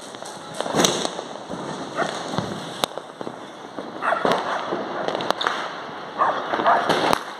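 Firecrackers and fireworks going off around the town: about five sharp bangs a second or two apart, with crackling and rumbling bursts in between.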